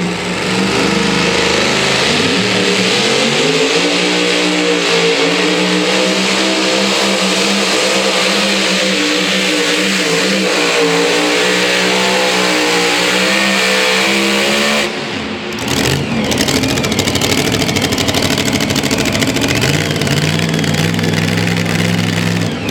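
Two-wheel-drive pulling truck's engine at full throttle under the load of a pulling sled: it revs up over the first few seconds and holds high and steady for about fifteen seconds, then cuts off suddenly. Engine sound comes back lower near the end.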